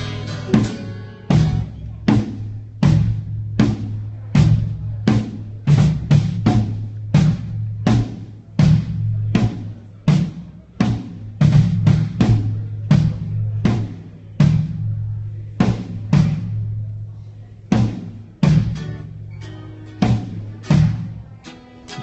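Drum kit struck hit by hit in a sound check, about one to two strikes a second, each ringing out, over a steady low hum.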